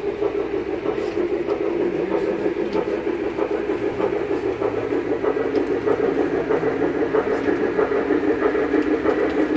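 A train running with a steady, fluttering drone.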